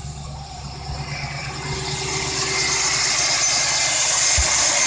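GM Vortec V8 engine running steadily at a raised idle a little above 1,000 rpm, held there on the throttle stop so the scan tool can read cam retard; it grows louder as the microphone moves into the engine bay.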